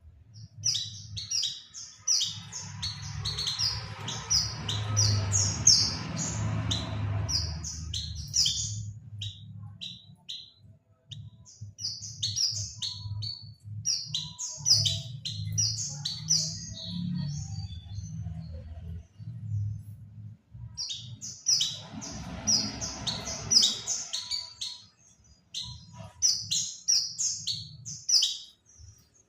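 White-eye (pleci) singing: rapid, high chirps and twitters in three long bursts with short pauses between. A low rumble runs underneath, with a rushing noise under the first and last bursts.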